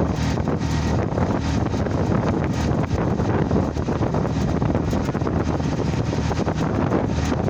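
Strong wind buffeting the microphone over the steady rumble of a moving vehicle.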